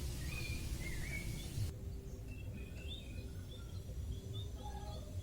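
Outdoor ambience with a steady low rumble and scattered short, high bird chirps. About two seconds in, the background hiss drops abruptly.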